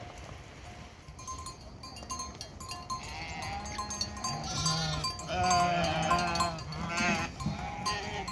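Livestock bleating: several pitched calls in the second half, one with a quavering pitch.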